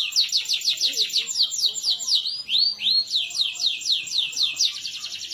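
Canary singing a rapid trill of repeated down-slurred notes, switching to a few rising notes about two and a half seconds in, then to a quicker, denser trill near the end.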